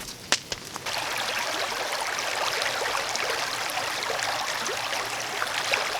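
Steady rain, a dense pattering hiss that comes in about a second in after a few sharp clicks.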